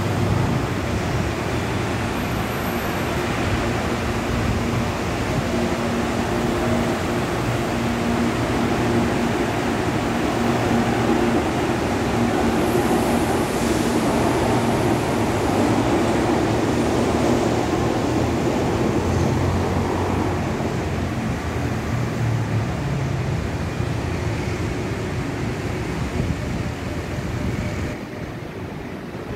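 Electric commuter trains running through a station: a steady rumble with humming motor tones as one train moves along the platform and another passes on a farther track. It is loudest about halfway through and quieter in the last second or so.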